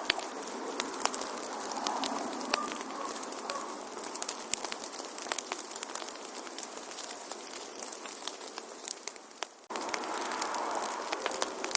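Wood fire burning in a fireplace: a steady hiss with many small, sharp crackles and pops at irregular moments. The sound thins out and fades for a moment, then cuts back in abruptly about two seconds before the end.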